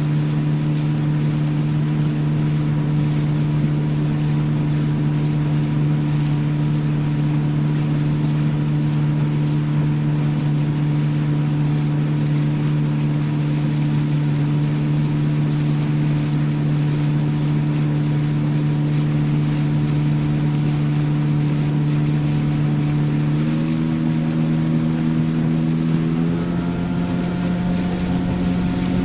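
Motorboat engine running at a steady pitch over the rush of water and wind, heard from aboard. Near the end it speeds up in two steps, its tone rising each time.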